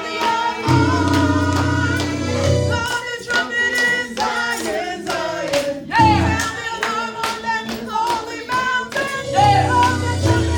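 Gospel-style worship music: voices singing over a band with a bass line, with tambourine and clapping keeping the beat.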